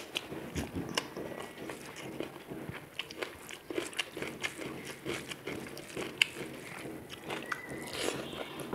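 Close-miked chewing and mouth sounds of someone eating rice and vegetable curries by hand: a run of short, crunchy clicks and wet smacks, with fingers mixing rice on a steel plate around the middle.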